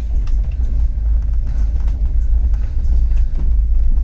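Passenger train running, heard from inside the moving coach: a steady low rumble of wheels on rails with faint clicks now and then.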